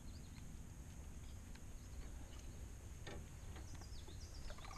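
Quiet open-air lake ambience over a low, even rumble, with faint high bird chirps: a few short falling notes near the start and again near the end.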